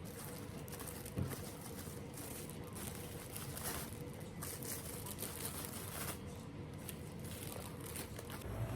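Faint rustling and soft clicking handling noises, with a small knock about a second in.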